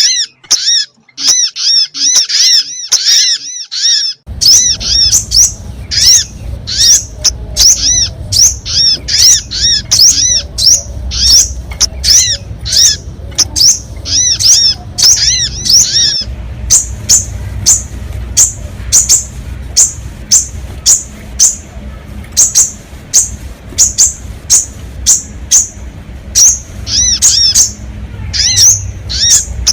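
Small bird calls played as a sogon lure recording: a fast, steady run of short, arching chirps, about two to three a second. A little past halfway the notes switch to higher, thinner chirps. A low rumble runs underneath from about four seconds in.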